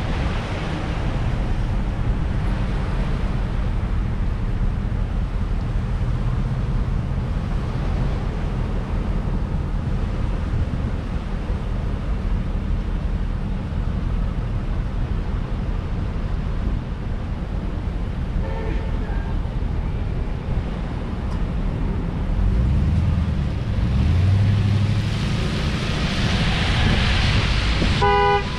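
Steady wind and road rumble on a camera mounted on the roof of a moving Chevrolet Malibu. A low hum rises in pitch about three-quarters of the way through, and a short tone sounds just before the end.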